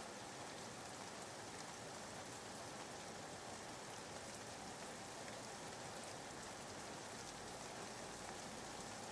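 Steady, soft rain falling, a constant even hiss of drops used as background white noise.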